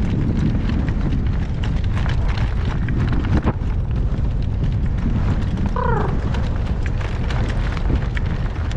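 Gale-force wind buffeting the microphone in a steady low rumble, with scattered small knocks and a brief wavering high-pitched call about six seconds in.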